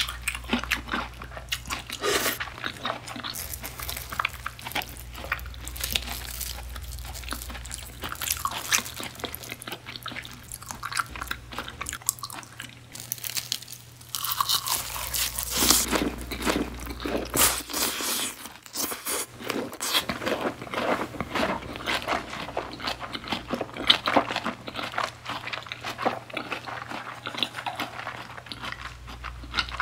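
Close-miked chewing and crunching while eating beef tartare and uni sushi. After a short lull near the middle, a large bite of seaweed-wrapped beef tartare brings louder, denser crunching.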